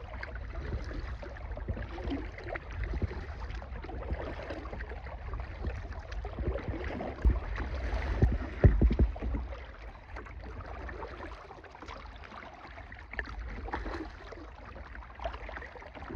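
Kayak paddle strokes, the blades dipping and splashing with water gurgling against the hull, under a low rumble. The splashing is heaviest about eight to nine seconds in.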